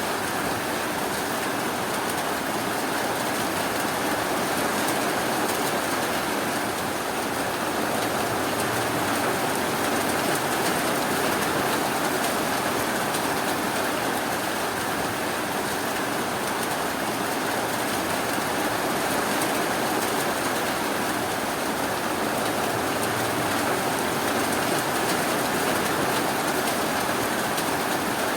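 Steady rainfall, a continuous even hiss that holds the same level throughout.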